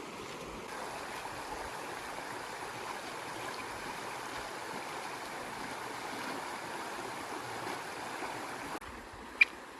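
Steady rush of a stream's running water. Near the end it drops suddenly to a quieter background, with a single sharp click.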